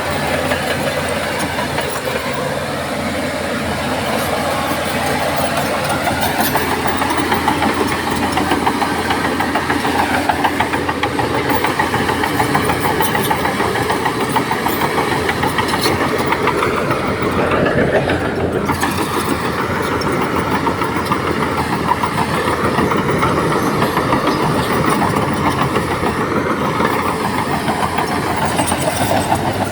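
Large diesel engine of heavy earthmoving machinery running steadily, with mechanical clatter.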